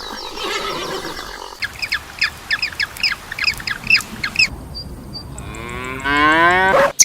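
A cow mooing once near the end, a loud call about a second long that rises in pitch. Before it comes a run of short, high chirps, about three or four a second.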